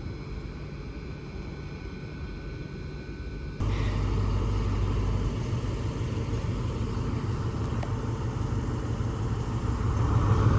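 Diesel train engine running, a steady low rumble that jumps abruptly louder about a third of the way in.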